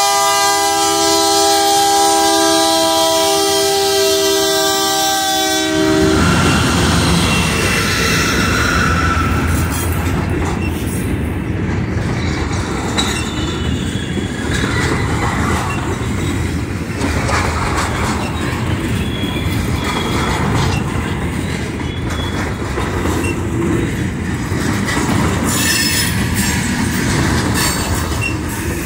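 GE C44-9W diesel locomotive's horn sounding a long multi-note chord that cuts off about six seconds in. The train then rolls past: steady rumble and clatter of hopper-car wheels on the rails, with short wheel squeals.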